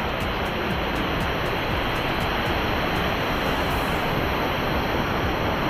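Steady, even rush of falling water from a small waterfall.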